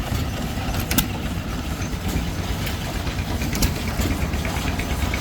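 A small 1.5 hp John Deere stationary gas engine running a can crusher, with a steady low chugging and one sharp clack about a second in.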